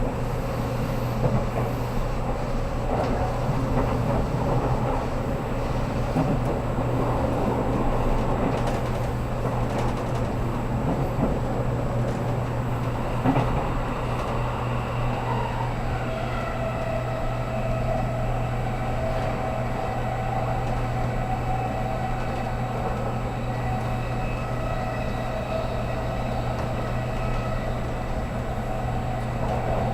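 Interior running noise of a JR Kyushu 783 series electric limited express train under way: a steady low hum over rail and wheel noise. About halfway through, a set of steady whining tones joins in and holds.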